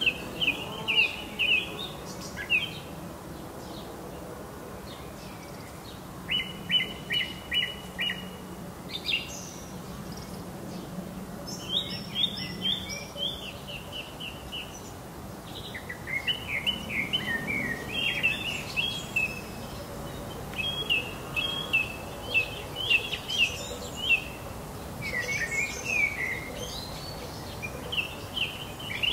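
Songbirds singing: short phrases of quick repeated high chirps, one after another with brief pauses between them.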